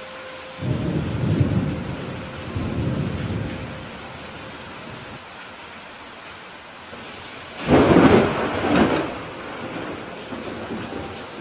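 Steady rain with thunder: a low rumble rolling in about a second in and swelling twice, then a louder, sharper thunderclap a little past the middle that lasts about a second and a half.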